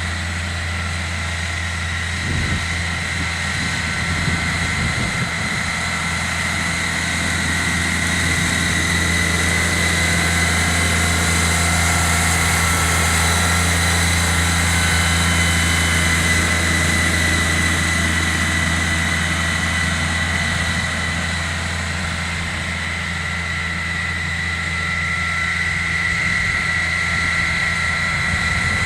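Compact tractor engine running steadily under load while driving a snowblower, with a constant low hum and a steady high whine over it.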